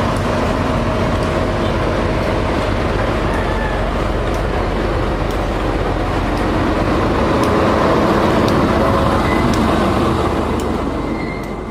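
Motor vehicle running steadily, a low engine rumble under road and traffic noise, starting to fade near the end.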